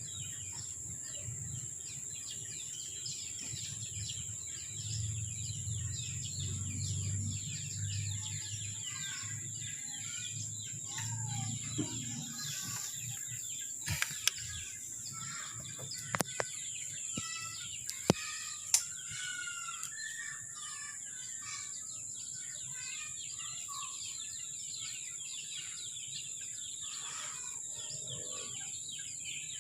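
Small birds chirping in many short, quick calls over a steady high-pitched drone, with a low rumble in the first half and a few sharp clicks in the middle.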